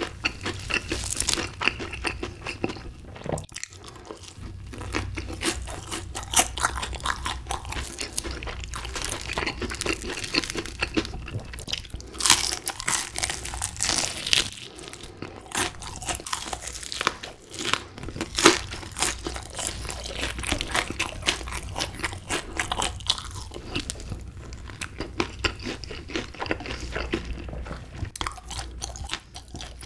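Close-miked crunching and chewing of crispy fried chicken, with many irregular crackles from the coating as it is bitten and chewed.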